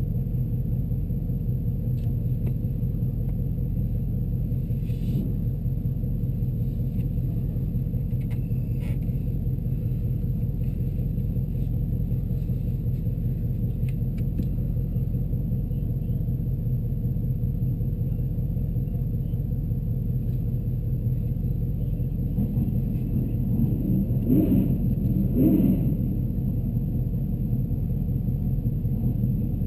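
A car engine idling with a steady low rumble, heard from inside the cabin. Near the end the rumble swells briefly twice.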